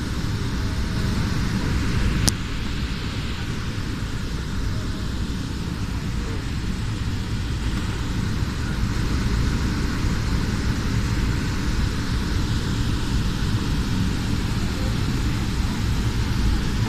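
Steady rumble of a jet airliner during take-off, with one sharp click about two seconds in.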